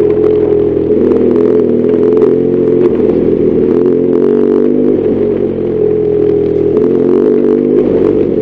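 BMW R1200GS Adventure's boxer-twin engine running under way at fairly steady revs, its pitch dipping and rising a little, with some intermittent clatter.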